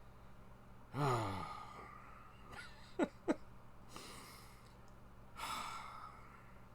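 A man sighs with a falling voice about a second in. Two short vocal blips follow around three seconds, then a breathy exhale near the end.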